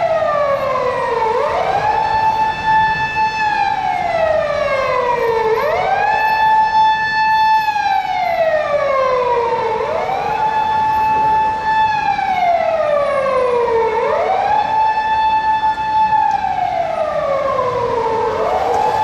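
Japanese fire engine's electronic siren wailing, loud and close. Each cycle rises quickly, holds high for a moment, then slides slowly down, repeating about every four seconds.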